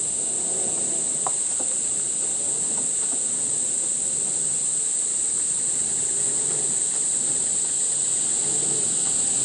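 Insect chorus: a steady, high-pitched, unbroken shrill drone.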